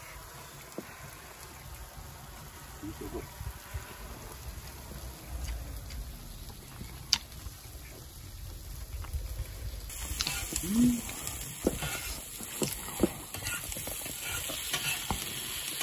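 Pork belly with kimchi and mushrooms frying on an iron griddle over a wood fire, with scattered sharp clicks of a utensil on the metal; the sizzle grows much louder about ten seconds in as the food is stirred.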